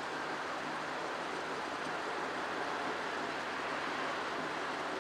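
Diesel locomotives of an approaching freight train heard from a distance: a steady, even noise with a faint low engine hum beneath it.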